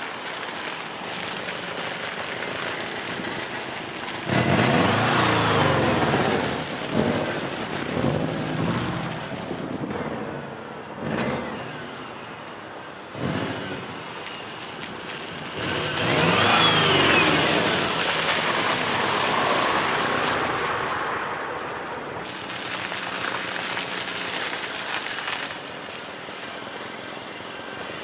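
Car engine revving up and down in several bursts, the loudest about four seconds in and again near sixteen seconds, over a steady hiss, as the car is driven sliding on ice.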